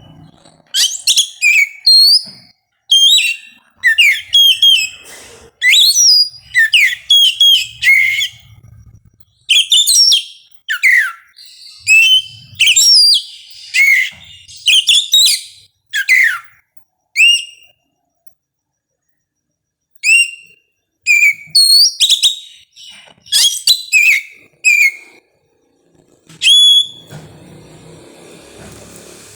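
Oriental magpie-robin singing: loud, varied whistled phrases with sweeping notes, one after another, broken by a pause of about two seconds past the middle, and stopping shortly before the end.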